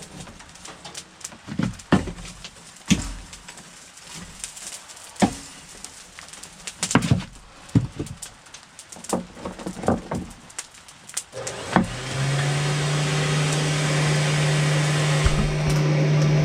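Scattered knocks and clatter of tools being handled, then about twelve seconds in an electric shop machine starts up and runs steadily with a low hum and a hiss.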